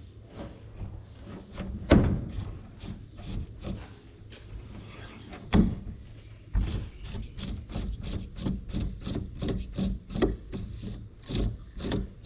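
A hand grease gun being pumped on a combine's grease fittings. Two single metallic knocks come first, then, from about halfway through, a quick, even run of clicking strokes at roughly four a second.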